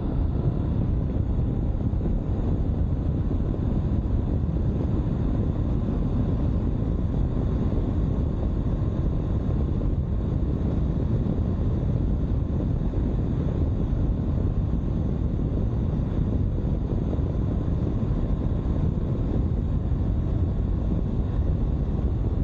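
Steady rush of wind and road noise on a moving 2022 Honda CB500X motorcycle, heaviest in the low end, with the bike's running underneath.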